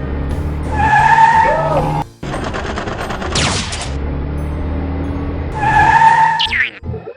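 Cartoon vehicle sound effects over background music: two loud skid-like squeals about a second in and again near six seconds, with a fast rattle of clicks and a falling whistle-like glide between them.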